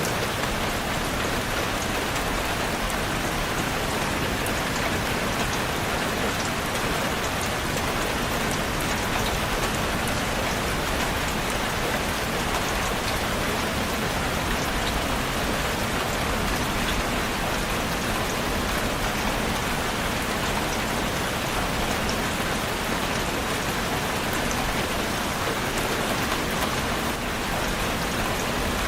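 Steady rain falling on a surface, a constant hiss with scattered drops ticking through it.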